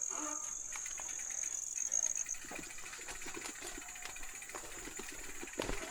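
Insect trilling steadily at a high pitch, cutting off about two seconds in, with faint rustling and light ticks.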